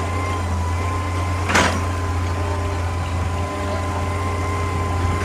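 Excavator's diesel engine running steadily with a constant whine over it, and a single sharp clank about a second and a half in.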